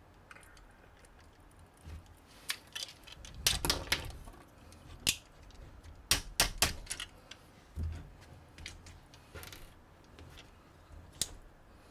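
Plastic LEGO-compatible building bricks clicking and rattling as pieces are handled and pressed together. It comes as scattered sharp clicks, with a busier clatter a few seconds in and again around halfway.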